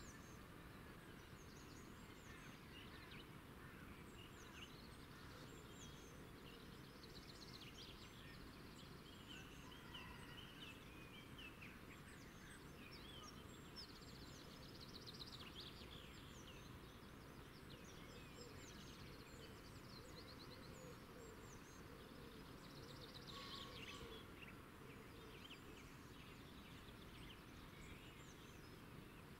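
Faint outdoor ambience: small birds chirping and giving short rapid trills at intervals over a low steady hiss.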